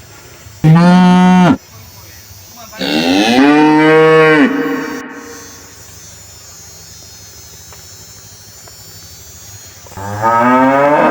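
A cow mooing three times: a short moo about a second in, a longer one at about three seconds, and another near the end.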